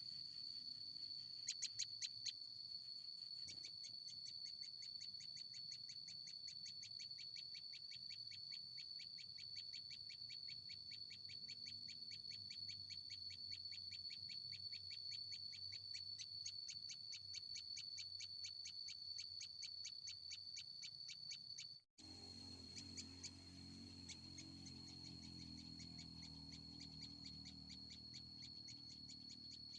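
A steady, high-pitched insect trill with a fast, even pulsing, and a few louder short chirps about two seconds in. The sound cuts off abruptly a little past two-thirds of the way through and then resumes.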